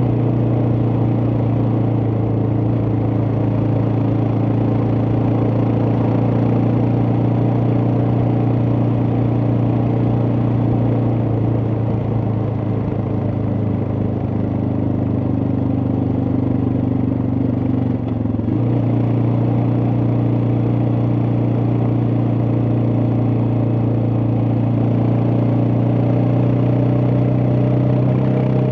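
Suzuki DR650's air-cooled single-cylinder four-stroke engine running steadily under a rider, with a brief dip and a change in the engine note about eighteen seconds in.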